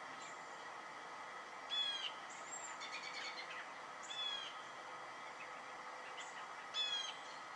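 A wild songbird giving harsh alarm calls, three loud calls about two and a half seconds apart, with softer short chirps from other birds in between.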